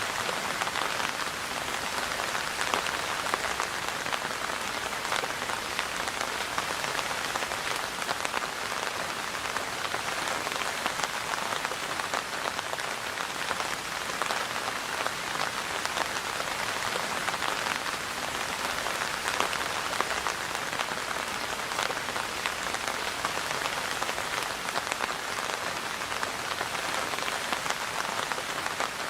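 Steady rain falling: an even hiss of many small drop impacts, unchanging throughout.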